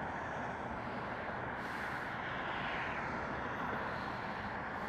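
Steady wind and traffic noise around a motorcycle in city traffic, with a vehicle swishing past about two seconds in.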